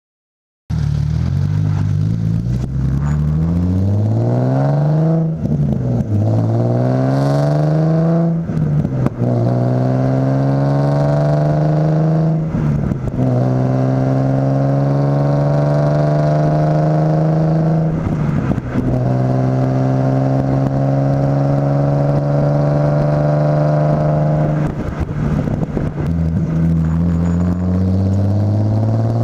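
Exhaust note of a Nissan 350Z HR's 3.5-litre V6 through an Injen stainless cat-back exhaust, pulling through the gears. The revs climb, drop sharply at each of about five shifts, then climb or hold in the next gear.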